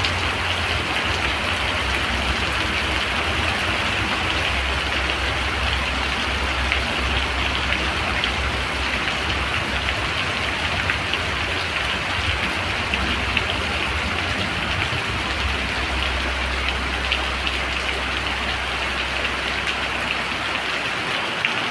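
Steady rain falling, an even hiss with single drops ticking through it, over a low rumble that cuts out near the end.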